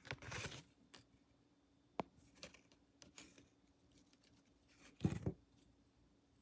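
Close-miked handling sounds from an ASMR haircut role-play: a brief rustle, a sharp click about two seconds in, a few light taps, then a louder brushing thump against the microphone a little after five seconds.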